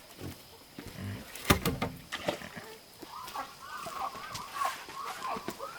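Chickens clucking in a quick run of short calls that begins about halfway through, after a few sharp knocks near the start.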